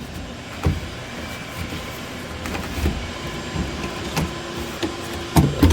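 Scattered clicks and knocks of a car door latch assembly being handled and wiggled free inside the door, with a louder cluster of knocks near the end.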